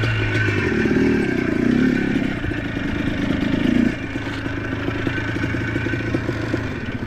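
ATV engine running while riding over rough ground, with rattling and clatter; the engine gets quieter about four seconds in.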